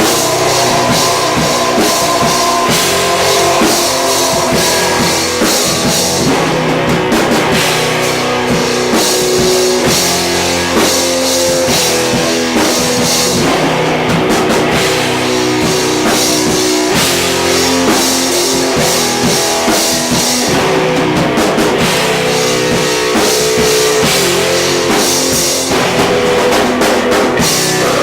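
A rock band playing live with drum kit and electric guitars, loud and without a break, with no vocals.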